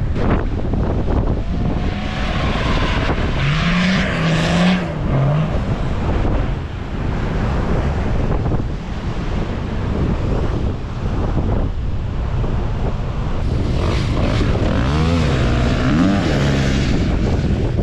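Vehicle engine running under way, with wind buffeting the microphone; the engine revs up and back down twice, about four seconds in and again near the end.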